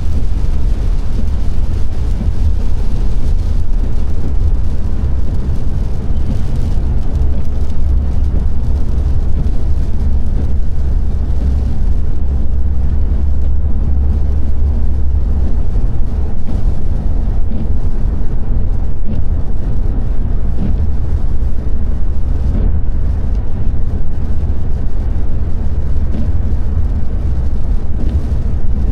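A car driving on a wet road: a steady, deep road rumble with the hiss of the tyres.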